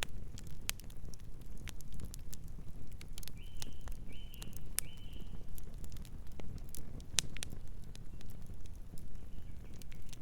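Campfire crackling, with irregular sharp pops and snaps over a low steady rumble of burning wood. A bird chirps three times in quick succession about three to five seconds in.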